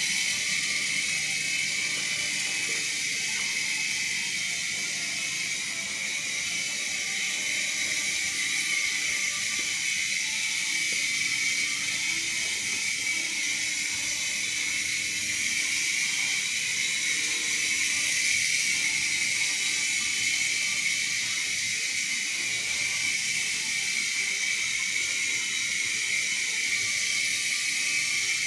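Tiny electric motors and rotors of a toy indoor RC helicopter whirring steadily in flight. It is a continuous high-pitched whine with several close tones around the upper-middle range and a hiss above them, holding an even level with only a slight dip a few seconds in.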